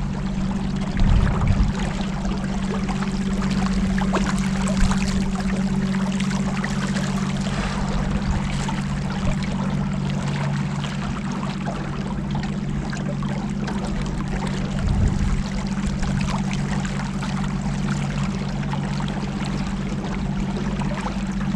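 A boat's motor running steadily at cruising speed, a constant low hum, with water rushing and splashing along the hull and a few brief knocks of the boat on the water.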